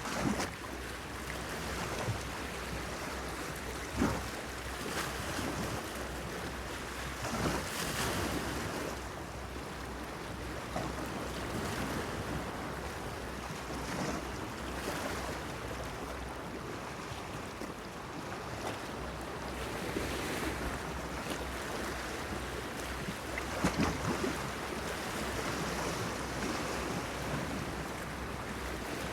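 Sea water lapping against a breakwater pier in a steady wash, with a sharper splash every few seconds. Light wind runs under it.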